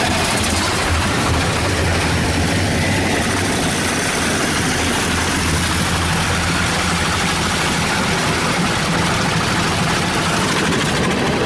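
High-pressure water jets of a D&S IQ Touch Free 2.0 touchless car wash spraying the side and top of the car, a loud, steady hiss and drumming heard from inside the cabin over a low, steady hum.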